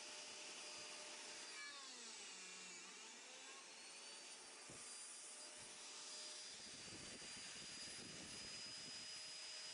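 Faint, steady hiss from an electric motor in the workshop. About a second and a half in, its whine falls in pitch as it spins down.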